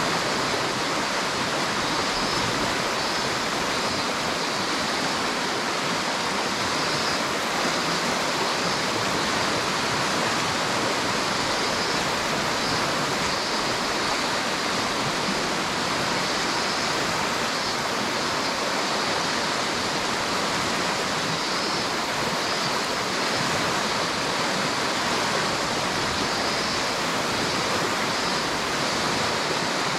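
River water rushing steadily, an even, unbroken rush.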